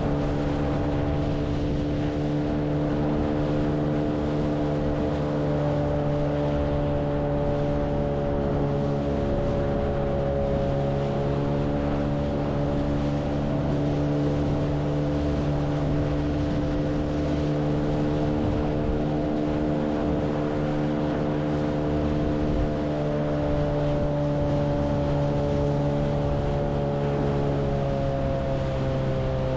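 Boat's outboard motor running steadily under way, its pitch drifting slightly up and down, with wind noise underneath.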